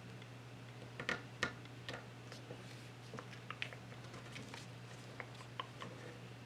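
A sheet of paper being handled and folded, with faint scattered crinkles and clicks as it is creased, the sharpest about a second in.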